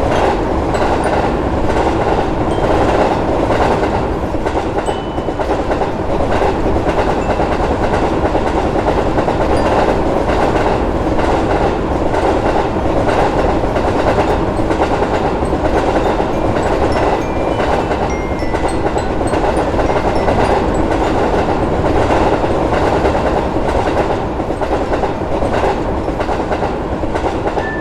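A train running past at a steady speed, its wheels clacking over the rail joints.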